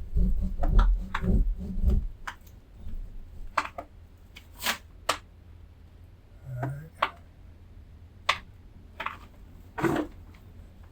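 Drywall ceiling being cut by hand: a run of rasping strokes for about the first two seconds, then scattered sharp clicks and snaps.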